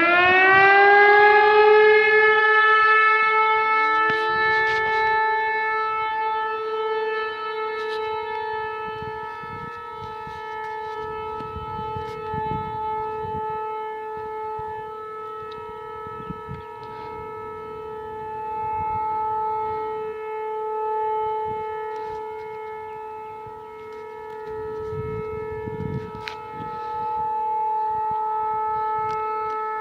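Outdoor tornado warning siren winding up and sounding a steady, loud wail, sounded for a statewide tornado drill. A second wind-up joins about four seconds in, and the tone swells and fades slowly in loudness.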